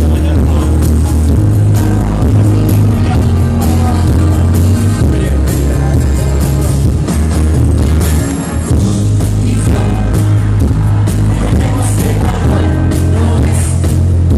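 Live band playing loudly, with a strong bass line, drum beats and some singing.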